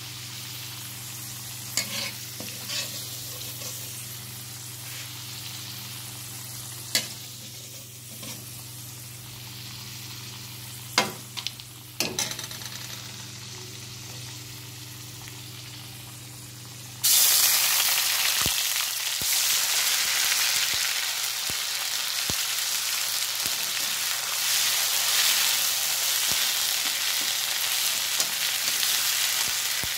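Potato pieces frying in oil in a kadai, with a slotted steel spatula clinking against the pan a few times. About halfway through, a loud steady sizzle starts suddenly as green masala is added to the hot oil and frying carries on.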